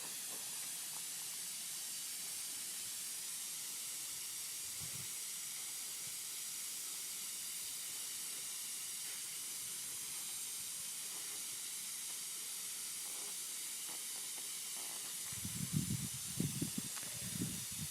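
Steady hiss of compressed air leaking from the air cannon's pressurised hose hookup, with a few soft low knocks of handling near the end.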